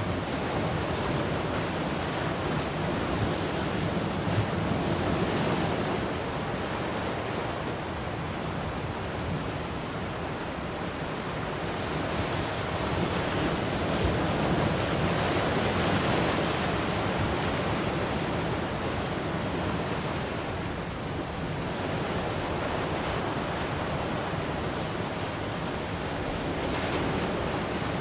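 Ocean surf: a continuous wash of breaking waves that swells and fades slowly, with louder surges a few seconds in, in the middle and near the end, and some wind on the microphone.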